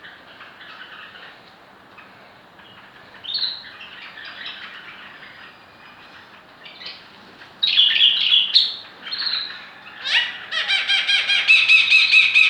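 Pet birds calling: faint chirping at first, then loud squawks about halfway through, and near the end a loud, fast run of repeated shrill calls.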